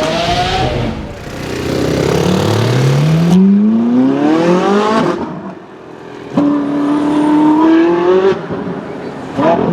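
Novitec-tuned Ferrari 458's V8 with aftermarket exhaust accelerating hard, its pitch climbing in two long pulls of about two seconds each, the second starting abruptly about six and a half seconds in.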